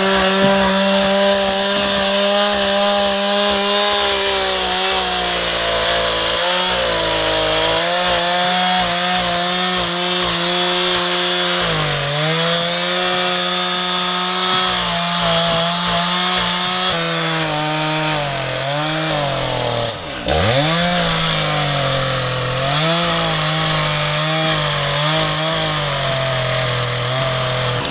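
Chainsaw running at high revs while cutting into a large cedar log. Its pitch sags under load several times and drops sharply about twenty seconds in before picking back up.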